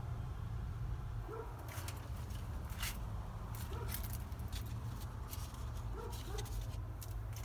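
Refrigerator compressor humming steadily, with faint short whines every couple of seconds and a few scattered clicks.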